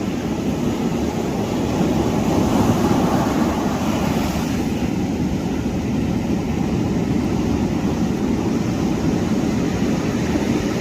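Steady roar of ocean surf mixed with wind buffeting the microphone.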